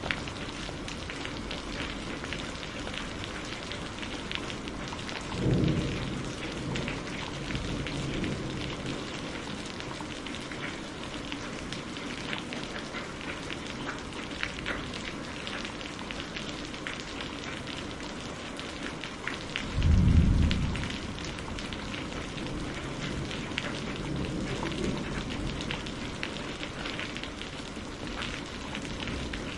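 Steady rain falling on a surface, with a dense patter of drops. Two short, low thunder rumbles come about five seconds in and again about twenty seconds in; the second is louder.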